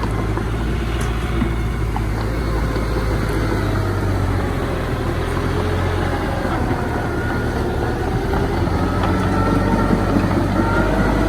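Diesel engine of heavy earthmoving machinery running steadily with a deep, even rumble, with faint thin whistling tones toward the end.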